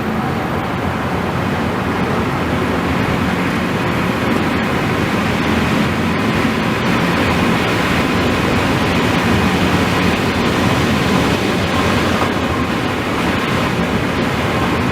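Car driving at high speed: a steady rush of road, tyre and wind noise.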